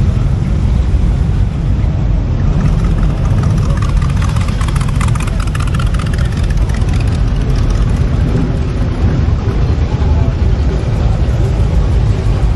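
Car engine running with a steady low rumble, with some voices in the background.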